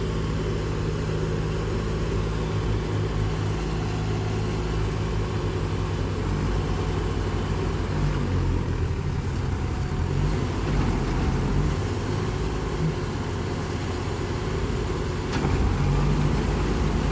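Heavy diesel machinery engine running steadily, its pitch and load shifting now and then, a little louder from about fifteen seconds in.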